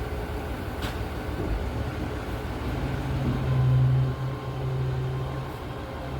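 Boxer 320 mini skid steer's engine running, its low steady hum growing stronger about three seconds in and loudest around four seconds, with a brief click about a second in.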